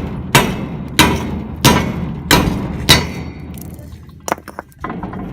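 A metal door being struck hard, five heavy blows about two-thirds of a second apart, each ringing briefly, then a few lighter knocks near the end. It is a locked, welded-shut door that won't give.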